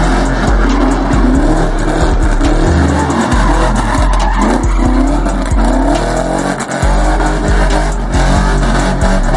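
A car doing a burnout: tyres screeching and the engine revving in rising sweeps. Over it plays loud hip-hop music with a deep, note-changing bass and a kick drum about twice a second.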